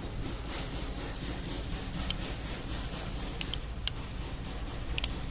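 Tata engine running with a steady low rumble, with a handful of short sharp clicks or rattles over it, the loudest near the end.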